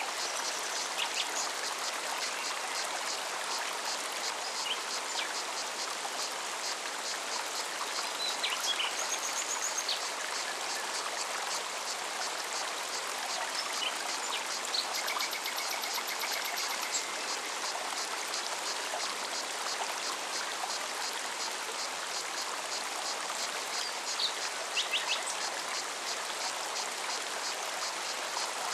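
Mountain forest stream running steadily over rocks, with a cicada's fast, even high-pitched pulsing above it. Short bird chirps and a brief trill come and go over the water.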